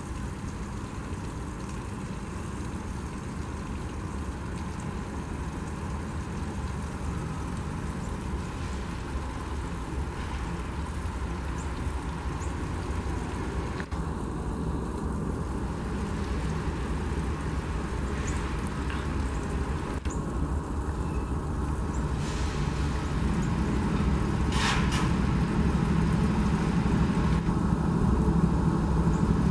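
Diesel train approaching, its low engine rumble growing steadily louder. Near the end the engine drone strengthens, with a couple of brief high hissing bursts.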